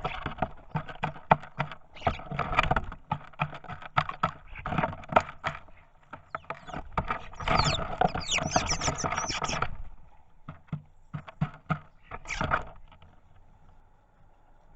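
Garden birds pecking and scrabbling at seed inside a feeder, right up against the microphone: rapid irregular taps and knocks, with a run of high squeaky notes about eight seconds in. The tapping thins out to a few knocks near the end.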